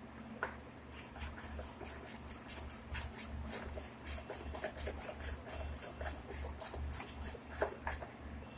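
Ratchet wrench being worked quickly, its pawl giving short rasping bursts of clicks about four times a second, starting about a second in and stopping near the end, over a low pulsing hum.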